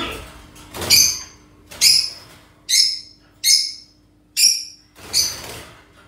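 A caged pet bird giving six short, shrill calls in a row, a little under a second apart.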